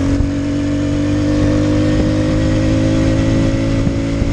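Vehicle engine running steadily at constant speed, its note holding one pitch.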